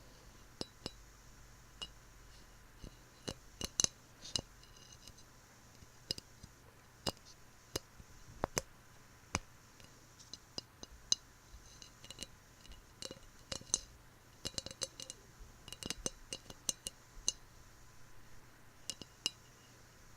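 Fingernails tapping and clicking on a small hard container, in irregular, sharp taps, some with a short clink-like ring, coming in clusters.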